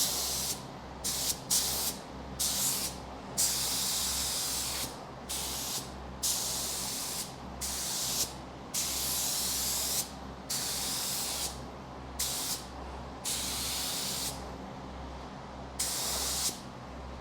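Paint spray gun spraying epoxy primer in a series of trigger pulls: hissing bursts, some short and some over a second long, with brief gaps between them. A steady low hum runs underneath.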